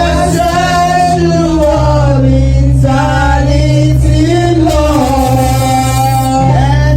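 Worship music with singing: sung voices in long held lines over a sustained bass that changes note about two seconds in and again near the end.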